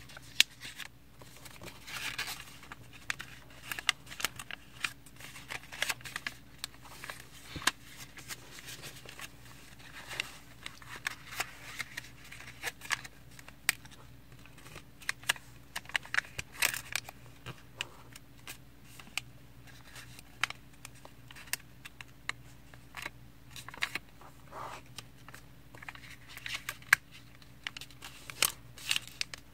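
A sheet of paper being folded and creased by hand: irregular crinkling with sharp crackles as the folds are pressed down, over a faint steady hum.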